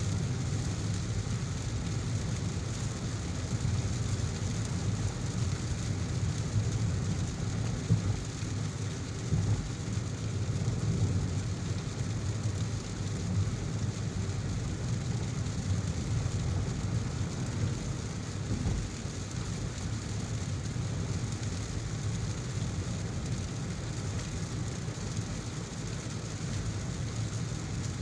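Heavy rain with the steady low rumble of a car driving on a wet road, with two brief louder thumps about a third of the way in.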